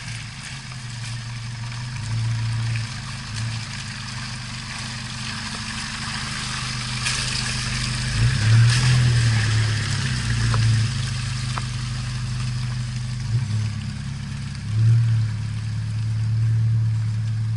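Vehicle engine running at low revs, revved up briefly a couple of times.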